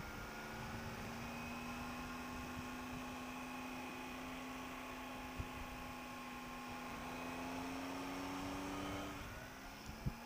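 Triumph Tiger 800 XRT's three-cylinder engine running on a steady throttle, its hum rising slowly in pitch as the bike gathers speed, then falling away about nine seconds in as the throttle is closed.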